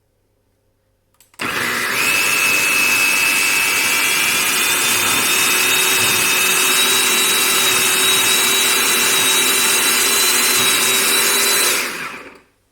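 Electric food processor running, blending a basil and pea pesto. It switches on about a second and a half in, runs steadily for about ten seconds with a high whine that rises a little early on, then stops shortly before the end.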